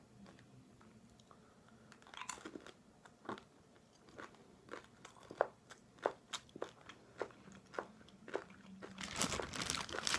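Close-up crunching and chewing of candy-coated malted milk eggs, a string of separate crisp cracks. Near the end, a burst of continuous crinkling takes over.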